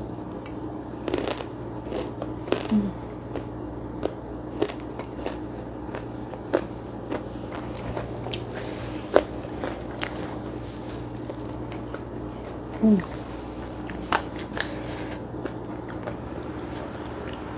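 Close-miked chewing of a mouthful of rice and fried food, with scattered small crisp crunches and a couple of short hums. A steady low hum runs underneath.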